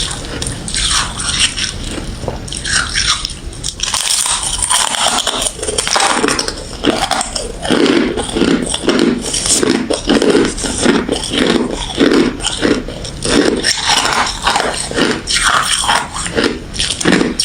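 Ice being bitten and chewed close to the microphone: crisp, crackling crunches, settling from about six seconds in into steady chewing at about two bites a second.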